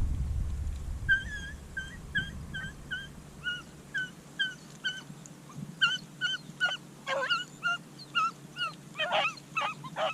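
Beagles yipping while running a rabbit: a steady string of short, high calls, two to four a second. More dogs join in with fuller, louder calls near the end. A low rumble fades away in the first second.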